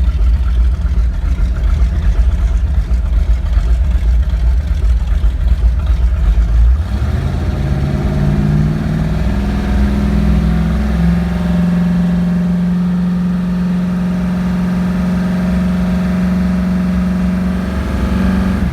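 427 Ford high-rise V8 boat engine running with a low, rough rumble. About seven seconds in it revs up, then holds a steady, higher engine note.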